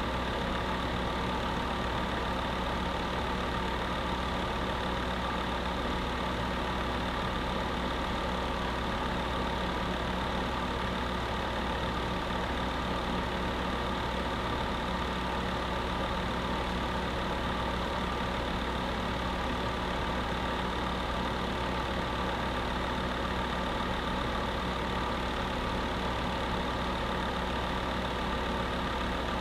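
Electric space heater with its fan running steadily: a constant motor hum under an even rush of air.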